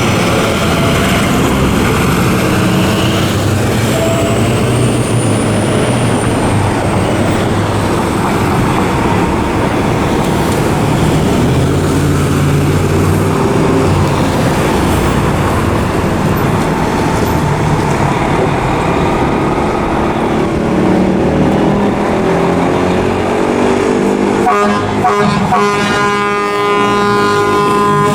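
1996 KME fire engine pulling out on an emergency response, its engine running loud under a wailing siren. About three and a half seconds before the end, a long steady air-horn blast comes in and holds on.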